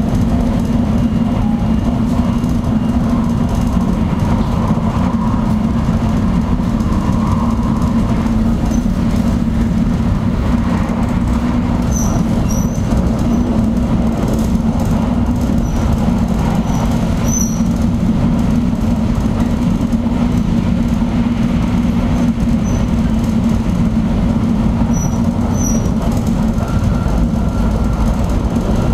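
Shinkansen bullet train running at speed, heard from inside the passenger cabin: a steady low rumble with a constant hum. A few faint, brief high squeaks come in around the middle and again near the end.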